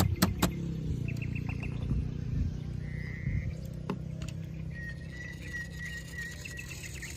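A steady low engine rumble, with a few sharp clicks right at the start and short bird-like chirps and a thin high tone over it.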